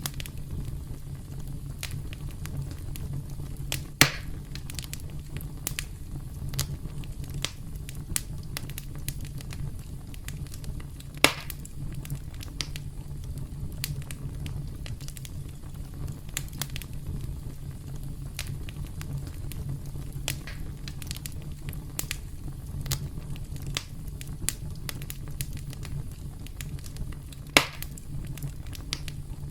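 Campfire burning with a steady low rumble and frequent small crackles, and three sharp, louder pops, about four, eleven and twenty-seven seconds in.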